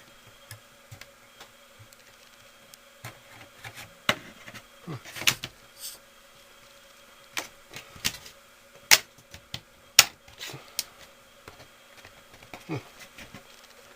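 Irregular clicks and knocks of hands working at a 1970s bathroom exhaust fan's grill, trying to pry it off, with two sharp clicks about nine and ten seconds in. A steady faint buzzing hum runs underneath.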